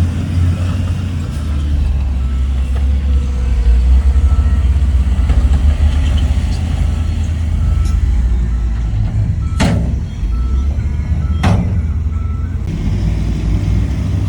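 Heavy diesel earthmoving machinery running with a deep, steady rumble, while a reversing alarm beeps over and over. Two sharp bursts cut through about two seconds apart near the end.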